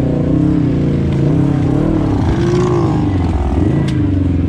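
Off-road ATV or side-by-side engine revving, its pitch rising and falling repeatedly as the throttle is worked, with one sharp click near the end.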